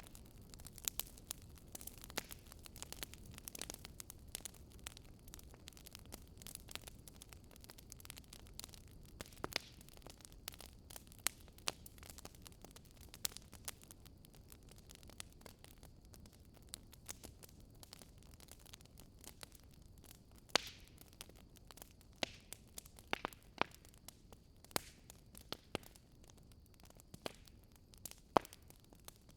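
Wood fire crackling, with many small irregular pops and snaps and a few louder ones, over a low steady hiss.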